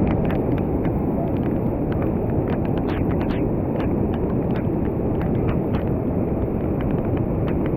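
Steady rushing rumble of fast-flowing river water, with many small splashes and drips ticking through it.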